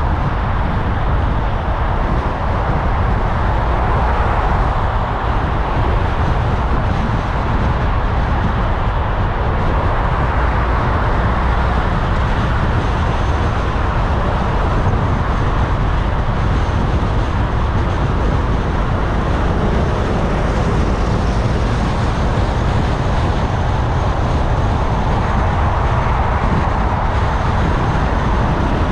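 Car driving through city traffic: steady road and engine noise with a deep rumble, even and unbroken throughout.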